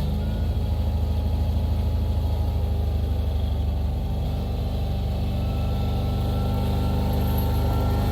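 Engine of a plowing vehicle running steadily, its pitch sagging a little early on and climbing again toward the end.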